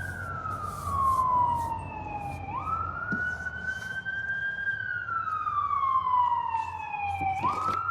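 An emergency vehicle siren wailing: its pitch jumps up quickly, holds, then slides slowly down, twice over, with a few light clicks mixed in.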